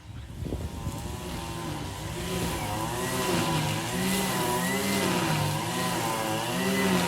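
A motor running steadily, its pitch rising and falling in a repeated wobble.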